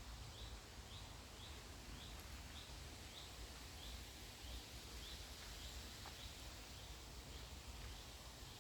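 A bird calling faintly: a steady series of short, high, upward-sliding chirps, about two or three a second, that fades out near the end. A low rumble of wind sits underneath.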